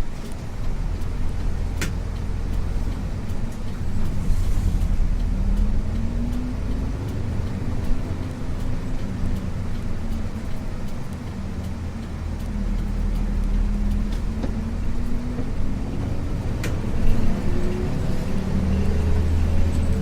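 Isuzu U-LV224N bus's 6QB2 diesel engine running under load, heard from inside the bus. Its pitch climbs several times as the bus accelerates, over a steady low rumble, with a couple of sharp clicks.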